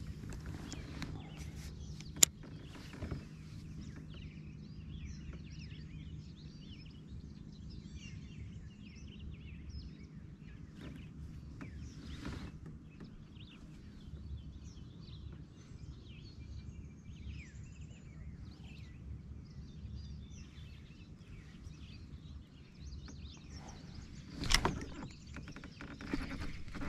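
Birds chirping and calling across the lake over a low steady hum, with one sharp click about two seconds in and a short louder rustle near the end.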